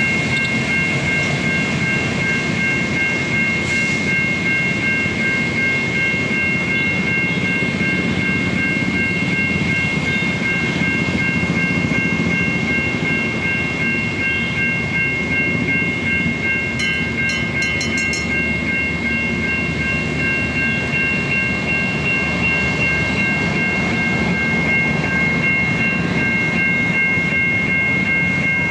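Railway level-crossing warning signal from a Siemens crossing package with a US-style electronic siren, holding a steady high multi-note tone. A train rumbles past over the rails underneath it.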